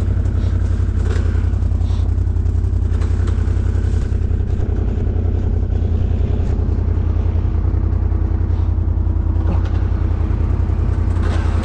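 ATV engine running steadily at low revs, with a few faint knocks.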